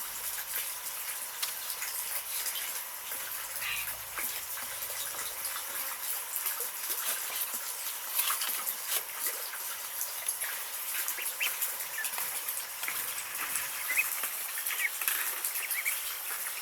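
Many ducklings peeping, short high calls scattered throughout over a steady high hiss.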